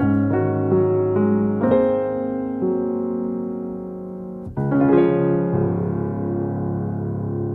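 Background piano music: a run of single notes, then a fuller chord about four and a half seconds in that is held and slowly fades.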